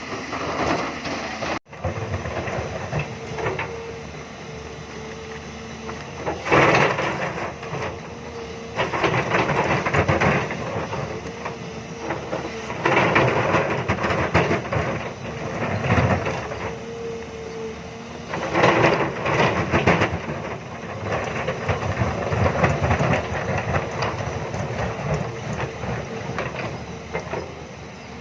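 Hyundai hydraulic excavator running steadily, with repeated loud bursts of scraping and grinding a few seconds apart as its bucket cuts into limestone rock.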